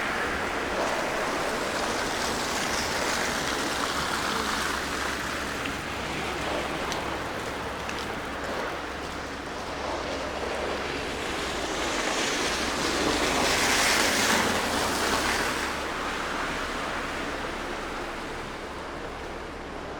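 Steady city traffic hiss of tyres on the street, swelling as a vehicle passes about two-thirds of the way through, then easing off.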